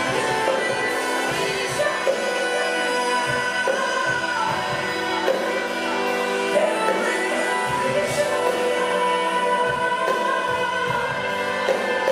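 Live pop music: a woman's voice singing long, held notes with slow slides between pitches over sustained instrumental chords.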